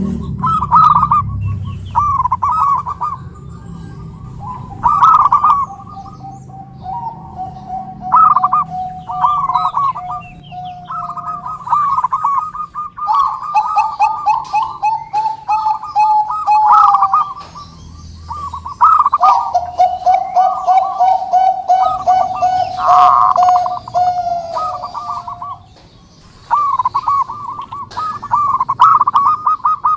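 Zebra doves (perkutut) cooing: short bubbly phrases repeated again and again, with long rolling trills held on a lower note. More than one bird calls at once, their songs overlapping.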